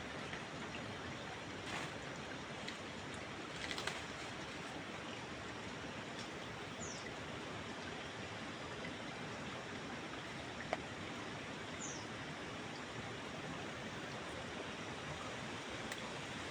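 Steady rush of a forest stream, with two short, high, falling bird chirps and a few soft clicks, including a small cluster about four seconds in.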